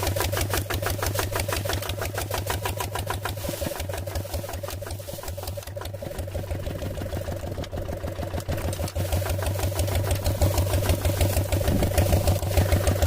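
A small engine running with a rapid, even chugging rhythm, easing off in the middle and picking up again near the end.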